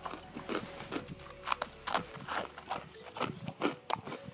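Close-up crunching and chewing of crispy fried snack sticks: a run of irregular, sharp crackles several times a second as the sticks are bitten and chewed.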